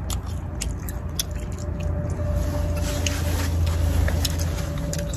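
A person chewing tender beef close to the microphone, with small wet mouth clicks, over a steady low hum.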